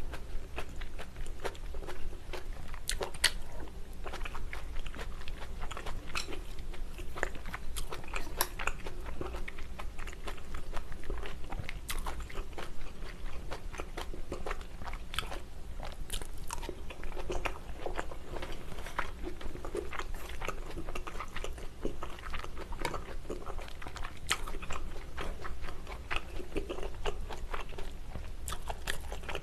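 A person chewing braised kimchi with pork, glass noodles and bean sprouts close to the microphone: wet mouth clicks and small crunches at an uneven pace.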